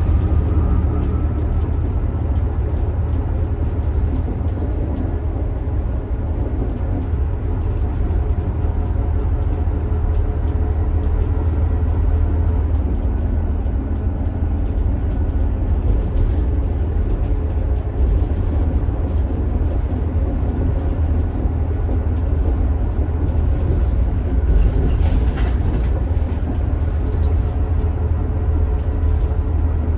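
Scania DC9 five-cylinder turbo diesel of a Scania K280IB bus running steadily under way, a deep continuous rumble with road noise.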